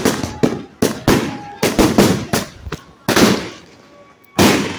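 Compound firework cake firing its shots: a quick string of sharp, loud reports, about three or four a second, then a pause of about a second and another report near the end.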